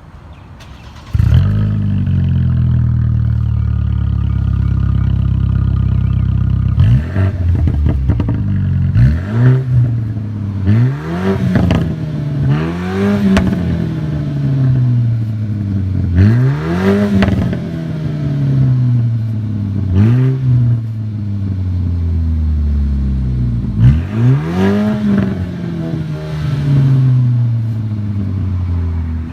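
2014 BMW 428i's 2.0 L turbocharged four-cylinder engine, heard through an exhaust with the muffler and resonator deleted. About a second in it starts up with a loud burst and runs at a fast steady idle. From about seven seconds on it is revved in about seven throttle blips, each rising in pitch and then falling back.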